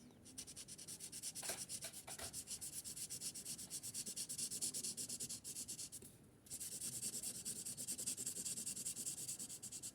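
Brush-tip marker colouring on paper: rapid back-and-forth strokes rubbing across the sheet, with a short pause about six seconds in before the strokes resume.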